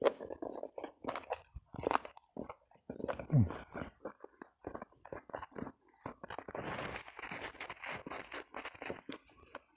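Close-up eating sounds: chewing with wet mouth clicks and smacks as food is eaten by hand, and a brief low sound falling in pitch about three seconds in, the loudest moment. From about two-thirds of the way in, a few seconds of dense, crisp crunching as something crunchy is bitten and chewed.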